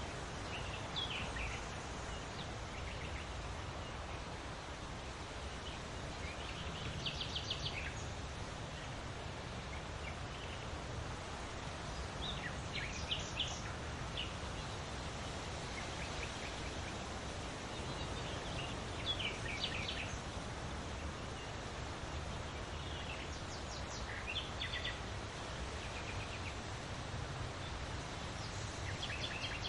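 Steady wind noise with a low rumble, and small birds chirping in short, quick trills every few seconds.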